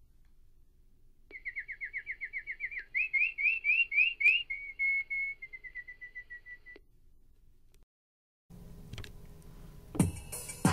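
A songbird singing one phrase of quick, repeated whistled notes: a run of falling slurs, then rising ones, ending in a short trill. Near the end, music with a drum beat starts.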